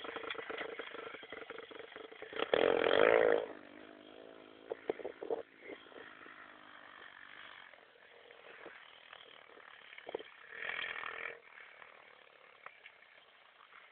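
Small 110cc pit bike engine revving, loudest for about a second around three seconds in, then running much quieter, with a second shorter burst of revving about eleven seconds in.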